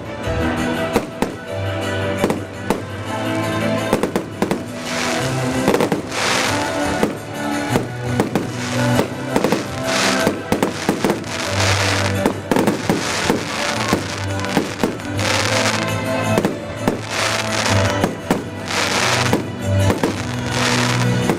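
Fireworks going off in quick succession, with sharp bangs and bursts of crackling, over music.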